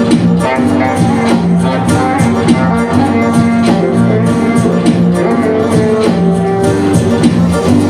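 Live band playing music with a steady beat and held instrumental notes.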